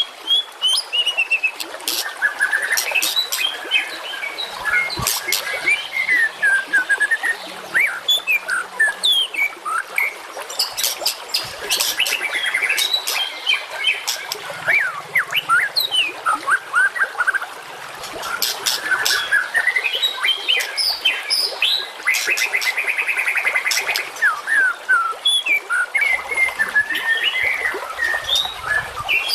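Dense, fast songbird song from a masteran training recording: a continuous jumble of short whistled notes, sharp chips and trills with almost no pause, and a buzzy rapid trill near the end.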